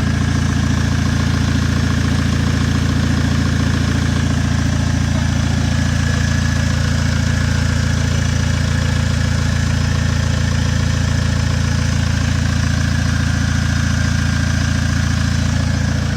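Engine with a straight-through exhaust and no muffler idling steadily, a fast, even run of exhaust pulses.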